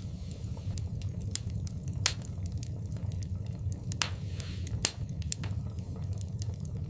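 Wood fire crackling in a fireplace: irregular sharp pops and snaps over a steady low rumble of the flames, with two louder pops about two seconds in and just before five seconds, and a brief soft hiss around four seconds.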